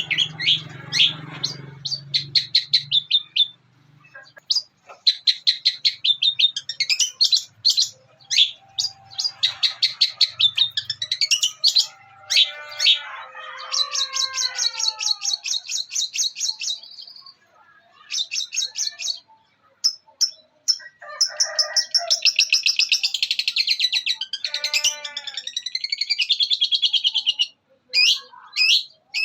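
Long-tailed shrike (cendet) singing a mimicry song: fast chattering runs and rapid trills copying the fighting calls of Eurasian tree sparrows, broken by short pauses and a few falling whistled glides.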